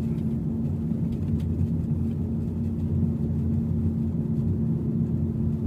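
Steady low drone of a car on the move, engine and road noise heard from inside the cabin.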